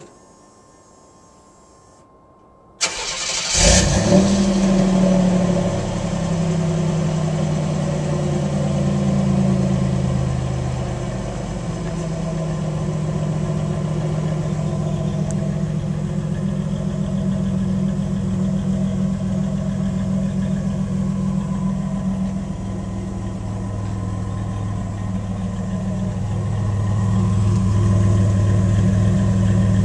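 1989 Pontiac Turbo Trans Am's turbocharged 3.8-litre V6 starting about three seconds in, through its stock exhaust with the catalytic converter deleted. It runs at a fast idle that drops over the next several seconds, then settles into a steady idle.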